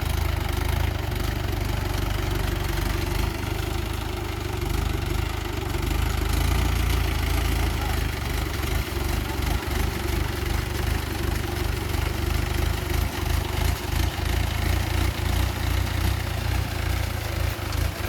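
Tractor engine running steadily, with a regular pulsing in its level through the second half.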